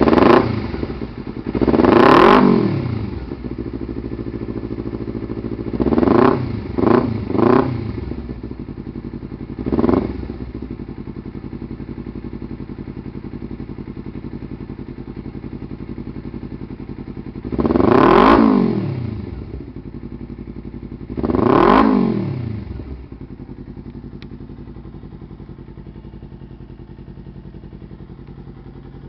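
Kawasaki Ninja 250R's parallel-twin engine idling through an aftermarket HUNG exhaust and revved in short throttle blips: two single revs, a quick burst of three, another single, then two longer revs, each rising and falling back. After the last rev it settles to a steady, quieter idle.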